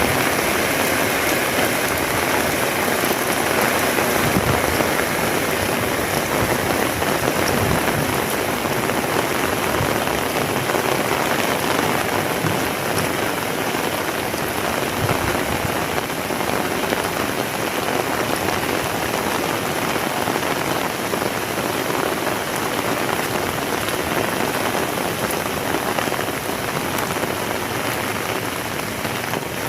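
Heavy rain falling, a dense, steady, even wash of sound.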